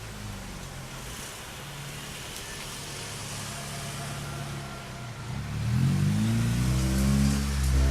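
A train's diesel engine running, growing louder and rising in pitch about five seconds in as it approaches the crossing.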